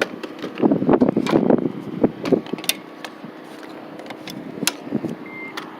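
A J1772 charging connector being handled and plugged into a 2016 Nissan Leaf's charge port: rustling, plastic knocks and a series of sharp clicks as it latches. Near the end comes a short high beep, the car signalling that charging has begun.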